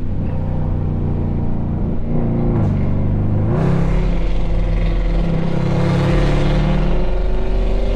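Loud exhaust drone from a nearby car's engine while cruising. The pitch steps down about two and a half seconds in and climbs back up about a second later, then holds steady.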